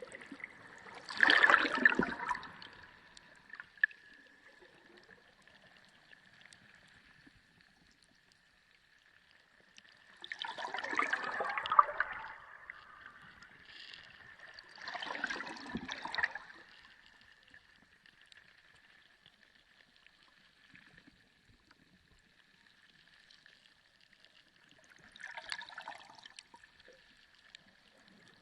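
Underwater sea sound: water gurgling and swirling in four separate surges, about a second in, around 11 s, around 15 s and near 25 s, with quieter stretches between. A faint steady high tone runs underneath.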